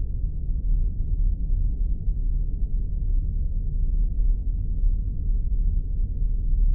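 Spaceship ambience sound effect: a steady deep rumble with no change in level, almost all of it low in pitch.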